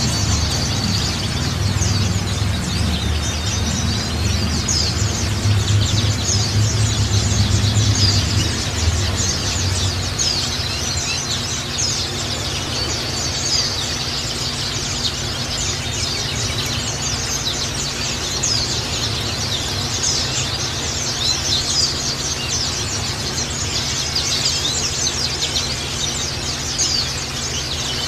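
White-eyes (pleci) chirping and twittering in a dense, continuous chatter of quick, high, thin notes: pleci lure song used to set captive birds singing. A steady low hum runs underneath, louder in the first ten seconds or so.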